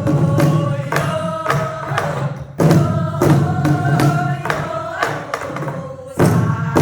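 Several voices singing a Korean folk song together while beating buk barrel drums (buk byeongchang). The sustained sung lines are punctuated by frequent drum strokes, with heavier accented strokes twice.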